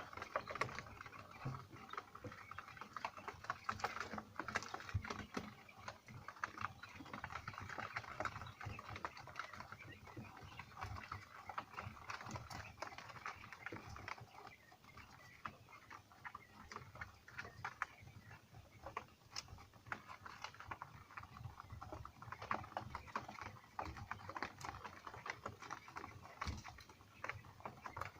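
Five-day-old Texas quail chicks moving about and pecking, a faint, continuous patter of small taps and scratches with animal sounds among them.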